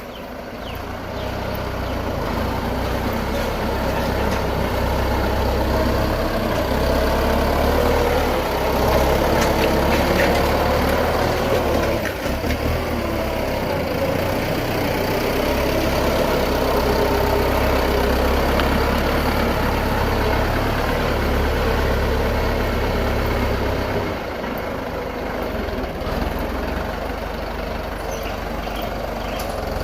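Tractor's diesel engine running under load as it pushes soil. It grows louder and works harder over the first several seconds, then eases off somewhat near the end.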